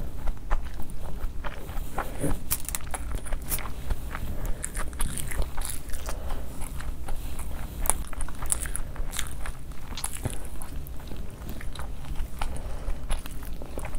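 Close-miked chewing and mouth sounds of a person eating chicken fried rice by hand: irregular wet clicks and smacks, over a steady low hum.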